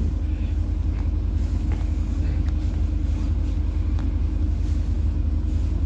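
Steady low rumble of a PAZ-4234-04 bus's diesel engine heard from inside the passenger cabin, with a few faint rattles.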